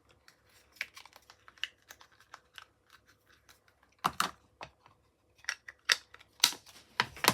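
Scattered small clicks and taps of craft supplies being handled on a work desk, with a few sharper knocks in the second half.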